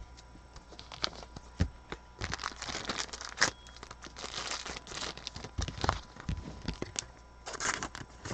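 A foil trading-card pack being torn open and its wrapper crinkled, in several bursts, with light clicks of cards being handled.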